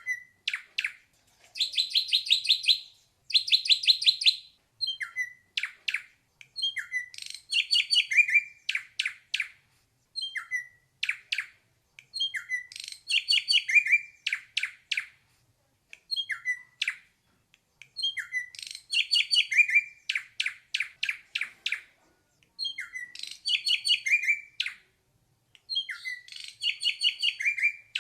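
Ashy drongo singing: repeated phrases, each a short slurred whistle followed by a rapid train of buzzy, rattling notes, with brief pauses between phrases.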